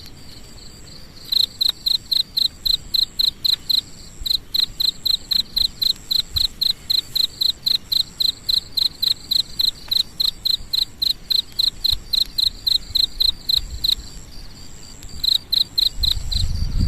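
An insect chirping in a steady, high-pitched rhythm of about five chirps a second, with a few short breaks. A low rumble comes in near the end.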